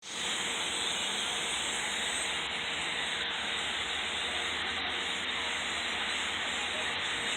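Dense, steady din of a large flock of crows, hundreds of birds calling at once so that the calls blur into one continuous hiss-like wash.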